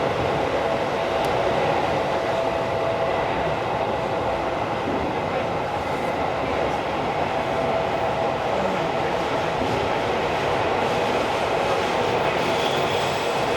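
Inside the car of a Tokyo Metro Series 16000 subway train running between stations: the steady rumble of wheels on rail and tunnel running noise, with a faint steady whine over it.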